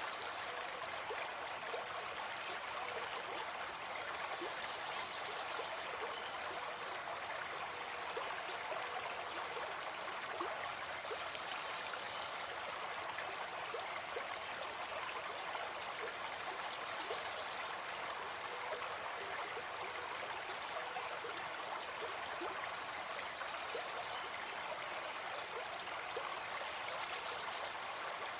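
Gentle forest stream flowing and babbling over stones, a steady, even rush of water with no break.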